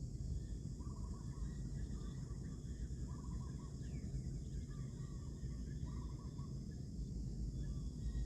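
Outdoor ambience: a bird repeating a short trilled call about once a second over a steady high insect drone, with a low rumble of wind on the microphone.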